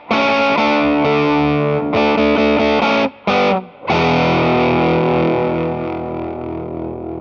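Electric guitar played through an Earthquaker Devices Sound Shank germanium fuzz pedal, giving a thick distorted tone. Chords are struck and briefly choked twice, then a final chord about four seconds in is left to ring and slowly fades.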